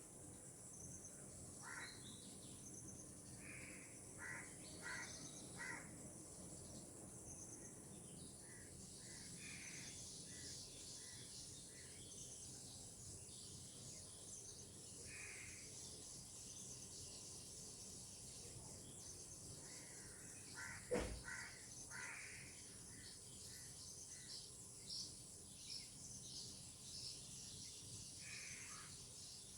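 Faint outdoor tropical ambience: scattered short bird calls over a steady high-pitched insect drone. One sharp click about two-thirds of the way through stands out above the rest.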